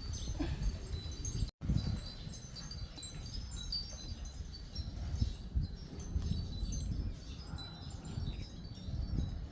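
Wind chimes tinkling in irregular, high, short rings over a low rumble, with a brief break about one and a half seconds in.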